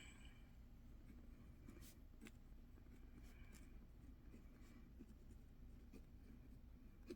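Faint writing on paper: scattered short scratches and ticks of a pen or pencil, over a low steady hum.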